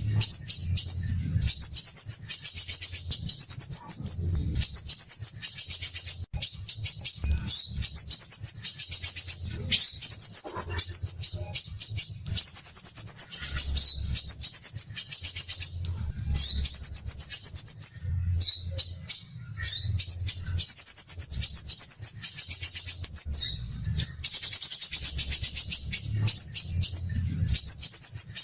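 Crimson sunbird (sepah raja) singing: fast, tightly packed, harsh high trills, repeated in phrases of a second or two with brief breaks, over a faint low hum.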